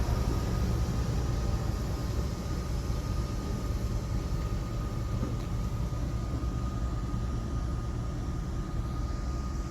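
Train running, a steady rumble with a thin high whine held throughout, slowly easing in level.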